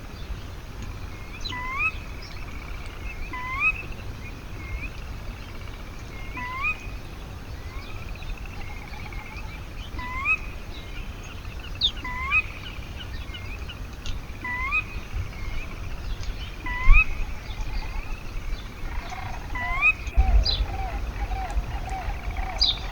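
A bird repeating one short call about once a second, each note sweeping up at the end, over a low outdoor rumble. Near the end a lower, fluttering call joins in.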